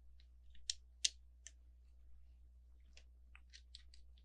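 Light plastic clicks of LEGO bricks being handled and pressed together: a few sharp clicks in the first second and a half, the loudest about a second in, then a quicker run of light clicks near the end.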